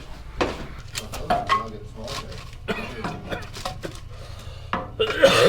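Irregular clinks, knocks and clatter of things being handled while someone gets ready to light a fire, with low voices in the background and a louder rustle near the end.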